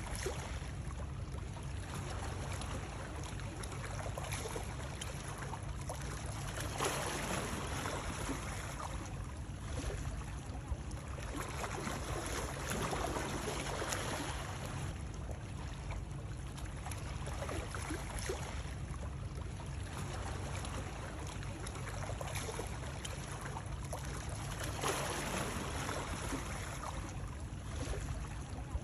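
Water running steadily, a continuous rushing and trickling with a low rumble beneath, swelling a little louder about every six seconds.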